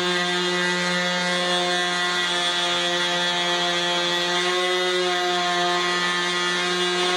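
Model airplane glow engine running steadily at high speed, a loud buzzing drone that holds one pitch, during a fuel-mixture tuning run.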